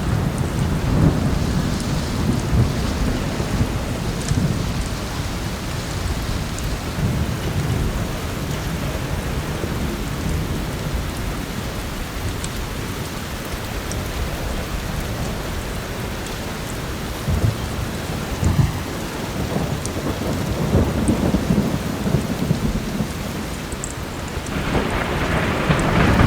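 Heavy rain falling steadily, with low rolling thunder rumbling on and off and swelling near the end. A few faint fireplace crackles sit over it.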